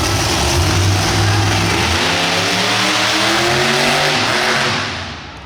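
Monster truck engine revving hard, loud and rough, its pitch climbing in the middle and the sound falling away near the end.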